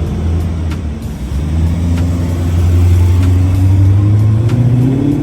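Classic car engine accelerating, its pitch rising slowly and steadily as it pulls, with a music track and its beat underneath.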